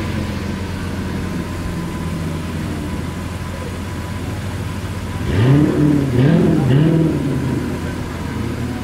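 Lamborghini Veneno's 6.5-litre V12 idling steadily, then revved three times in quick succession about five seconds in before settling back to idle.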